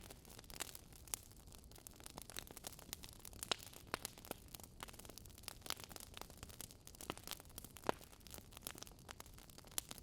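Fire crackling: irregular sharp pops and snaps of varying loudness over a soft hiss.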